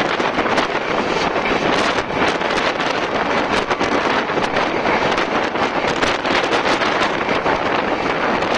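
Steady loud rush of wind and running noise from a fast-moving express train, heard at the window with wind buffeting the microphone, broken by many short irregular knocks.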